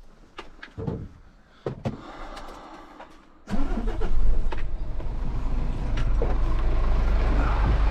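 A few light clicks and knocks, then about three and a half seconds in a truck engine starts, with a brief rise in pitch, and settles into a steady low idle.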